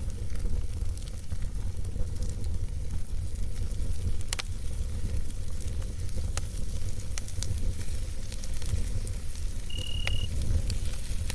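Campfire crackling, with scattered sharp pops over a steady low rumble. A short steady high note sounds once near the end.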